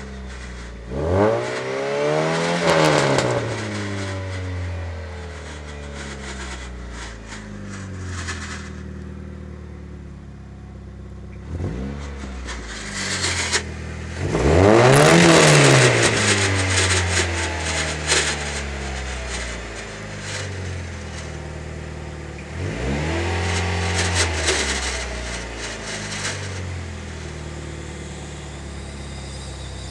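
A DSM Mitsubishi Eclipse engine idling and blipped three times: near the start, about halfway and about three-quarters through, each time rising in pitch and dropping back to idle. The owner finds the engine's noise strange.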